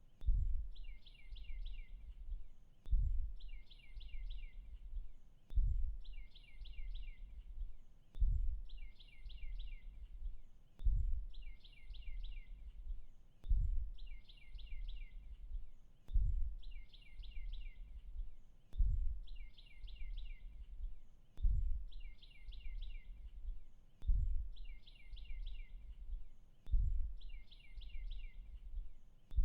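A short phrase of rapid, high bird chirps repeating at a very even pace, about every second and a third, as in a looped nature-sound track. Under it a low thump recurs about every 2.7 seconds.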